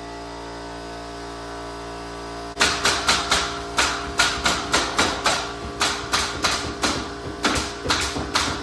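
Pneumatic staple gun firing staples through metal lath into wood in quick succession, about three shots a second, starting about two and a half seconds in. Before the shots there is a steady hum.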